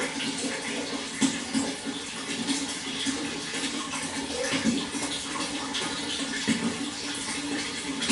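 Water flowing steadily, with many small splashes breaking through the rush.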